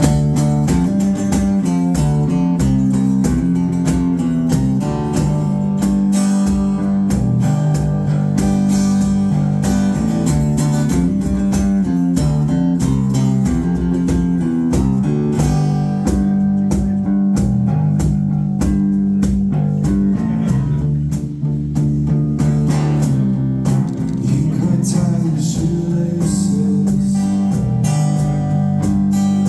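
A band playing a song live: strummed guitars over a steady drum beat.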